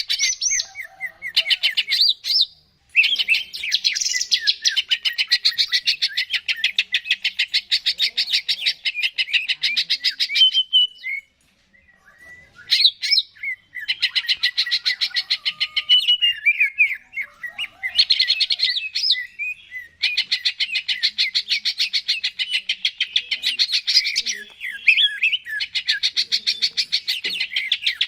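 Green leafbird (cucak ijo) singing in long, fast chattering runs of rapidly repeated high notes, each run several seconds long, broken by short pauses about three seconds in, around eleven to thirteen seconds in, and about twenty seconds in.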